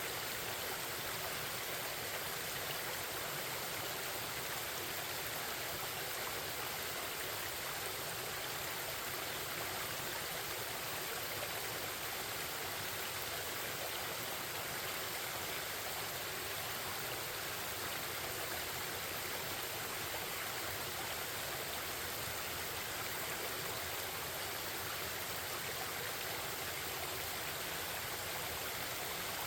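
A forest stream flowing and babbling, a steady, even rush of water.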